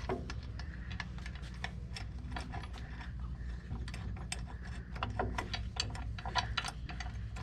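Hand ratchet wrench clicking in irregular runs as bolts are turned, over a steady low hum.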